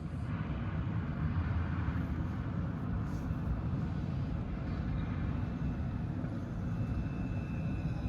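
Roslagsbanan narrow-gauge electric train running on the track: a steady low rumble that comes in suddenly at the start and holds evenly.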